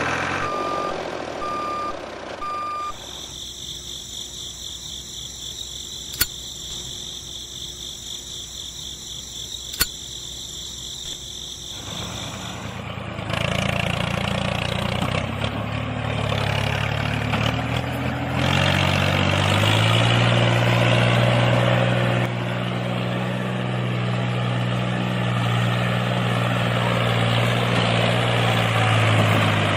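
A reversing beeper sounding evenly repeated beeps for the first three seconds, then a steady high-pitched whine broken by two sharp clicks. From about 13 seconds a small motor hums, stepping up in pitch a few seconds later and then holding steady.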